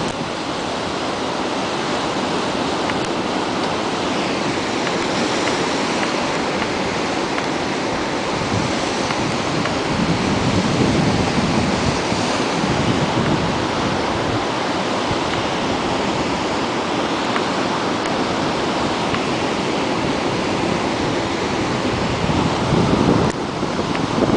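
Ocean surf breaking and washing in as a continuous rushing noise that swells and eases, with wind buffeting the microphone.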